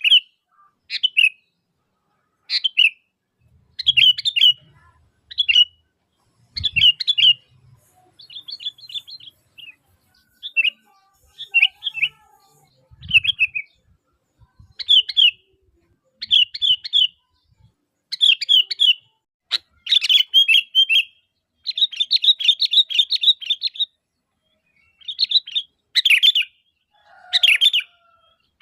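Sooty-headed bulbul singing: short, bubbly whistled phrases repeated about once a second, with a longer rapid chattering run about two-thirds of the way in.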